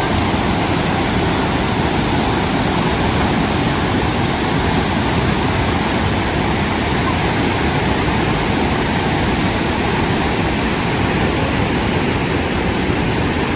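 Rushing water of a river in flood, a steady unbroken noise of fast-flowing water.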